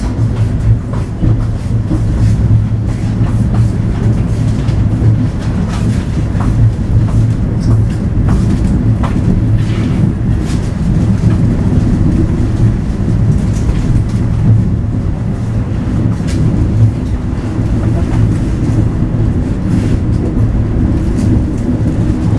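Local economy passenger train heard from inside the carriage as it pulls out of a station and rolls on. A steady low rumbling drone runs throughout, with scattered clicks and clacks from the wheels on the track.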